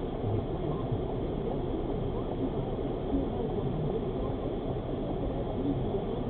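Steady low rumble of a moving car, road and engine noise, picked up by a dashcam microphone inside the cabin.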